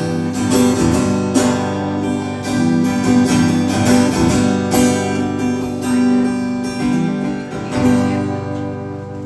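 Acoustic guitar strumming chords through the instrumental close of a song, easing off near the end.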